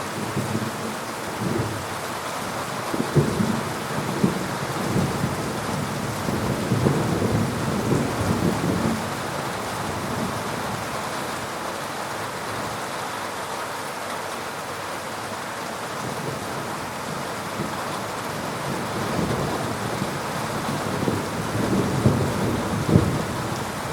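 Heavy rain falling steadily, with thunder rolling through the first several seconds and again near the end.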